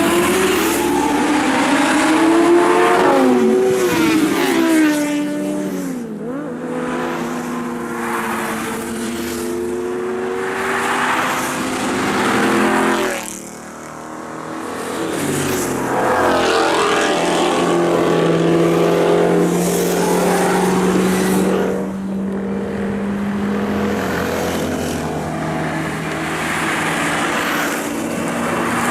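Sports car engines revving and accelerating on the road, the engine note rising and falling again and again, with a short lull about halfway through.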